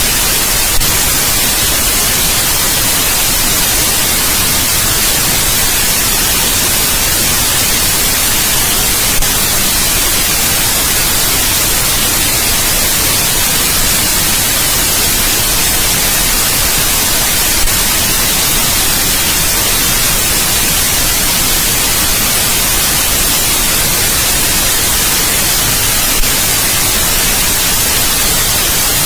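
Continuous white noise: a steady, even hiss across all pitches, loudest at the top. A faint tick comes about every eight and a half seconds.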